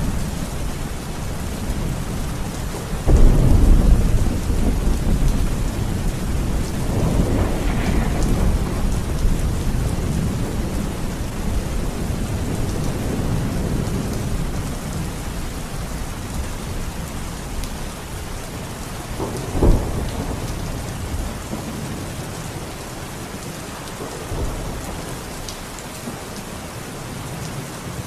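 Steady heavy rain with thunder: a sudden loud thunderclap about three seconds in that rolls on as a long low rumble, another rumble a few seconds later, a sharp crack near the two-thirds mark and a fainter one after it, the rumbling dying away toward the end.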